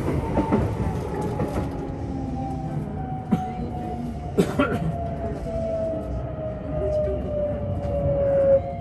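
JR Osaka Loop Line electric train running, heard from inside the carriage. Under the rumble, a whine glides steadily down in pitch, typical of the traction motors as the train slows. Two sharp clacks come a little before and a little after the middle.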